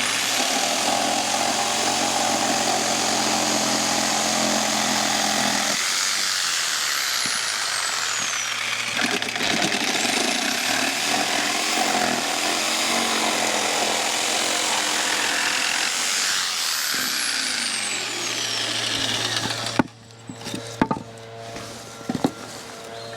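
Electric power saw cutting timber for trackbed, running loudly for about twenty seconds and then stopping abruptly, followed by a few light knocks.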